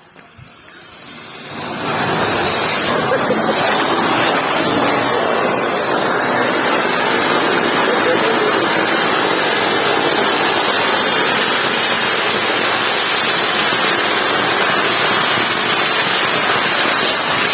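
Firework fountain spraying sparks: a loud, steady hiss that builds over the first two seconds and then holds.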